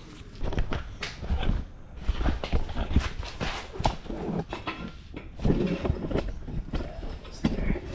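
Irregular knocking and clattering, at times several sharp knocks a second, over a low rumble.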